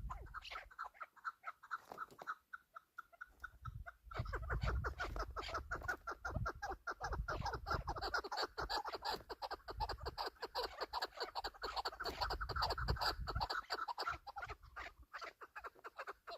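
Chukar partridges calling: a run of rapidly repeated short notes, sparse at first and turning into a dense, continuous chatter about four seconds in, with low rumbling noise underneath at times.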